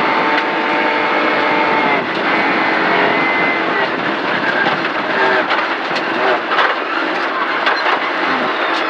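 Rally car engine heard from inside the cabin, running hard at high revs and easing off about two seconds in. After that the revs rise and fall, with several sharp knocks and rattles from the car.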